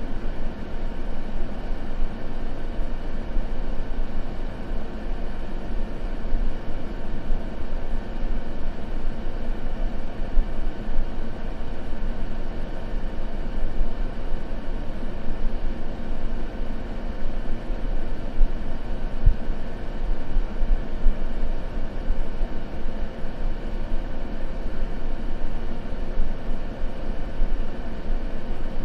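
Continuous white-noise ambience: an even, unchanging hiss with a deep rumble underneath.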